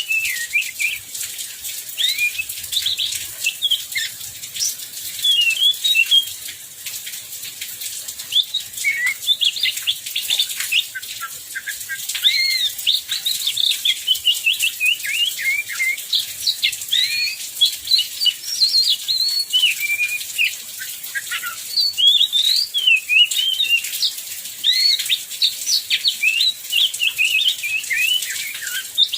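Oriental magpie-robins singing a continuous, varied song of quick whistled notes that sweep up and down, over a steady hiss of heavy rain.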